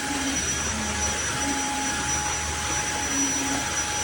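Tineco iFLOOR 3 cordless wet-dry floor cleaner running steadily: its suction motor and brush roller make an even rushing noise with a steady high-pitched whine.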